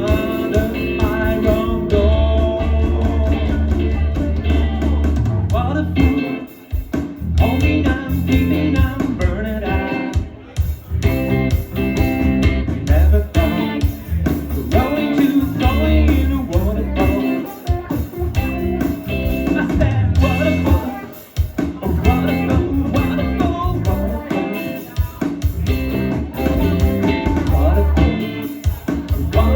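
Live band music with guitar to the fore over a bass line that drops out briefly a few times.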